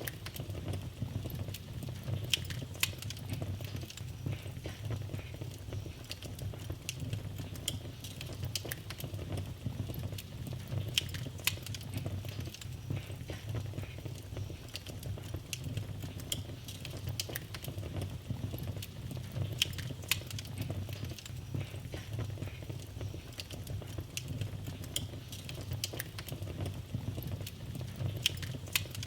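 Wood fire in a fireplace crackling, with frequent sharp pops and snaps scattered over a steady low rumble of the flames.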